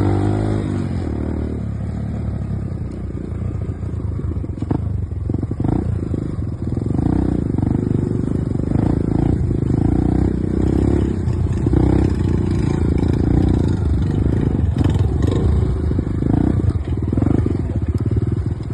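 Enduro dirt bike engine running with uneven throttle. Its pitch falls in the first second or so, then rises and falls repeatedly.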